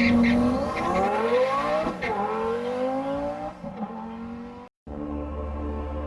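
Twin-turbocharged Lamborghini Huracan V10 accelerating hard, its pitch climbing, dropping at a gear change about two seconds in, climbing again, then fading. It cuts to a moment of silence just before five seconds in, followed by dramatic background music.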